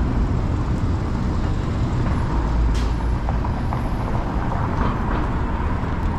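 City street traffic: a steady low rumble of passing vehicles, with one short sharp sound nearly three seconds in.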